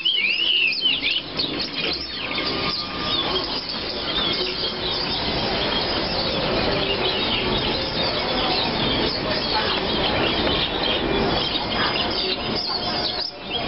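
Many caged songbirds chirping and singing at once: a dense chorus of short, high calls and repeated notes over a steady background din.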